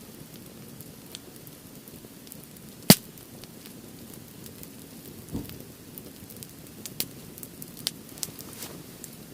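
Firewood burning in a campfire grill, crackling with scattered sharp pops over a steady low rush of flames; one loud pop comes about three seconds in.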